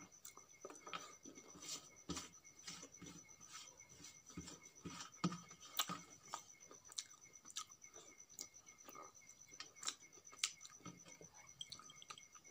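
Close-miked chewing of a mouthful of rice, with wet mouth clicks and fingertips picking at grains on a steel plate: many short, sharp clicks scattered irregularly.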